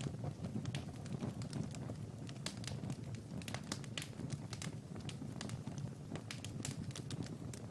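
Wood fire crackling in a fireplace: frequent, irregular sharp pops over a steady low rumble of the flames.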